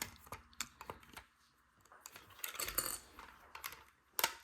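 Plastic LEGO pieces being handled and pressed together: scattered small clicks and rattles, with a sharper click near the end.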